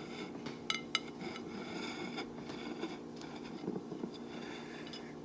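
A few light clicks and taps of dishes and food containers being handled, the sharpest two close together about a second in, over a steady low hum.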